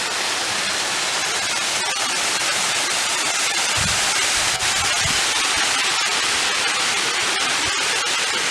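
Steady rush of water from a creek or waterfall, an even hiss with no break. Two low thuds come about four and five seconds in.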